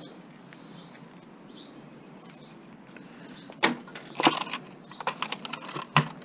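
Parts being handled while an old electronic device is taken apart by hand. After a few quiet seconds come sharp clicks and knocks, a quick run of smaller rattling clicks, then one louder knock near the end.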